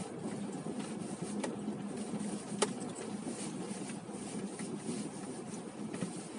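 Steady low rumble of a car's running engine heard inside the cabin, with a faint hum and a few light clicks, one sharper about two and a half seconds in.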